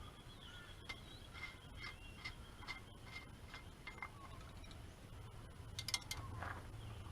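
Faint, light metallic clinks and taps, a dozen or so spread irregularly, each ringing briefly, with a quick cluster of clicks near six seconds.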